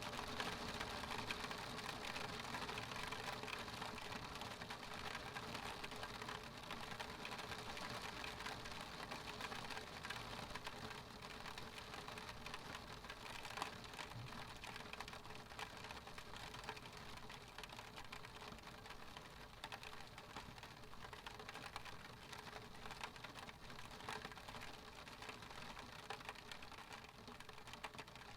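Rain pattering on a window pane: a dense, steady stream of small drop taps on the glass, slowly getting quieter.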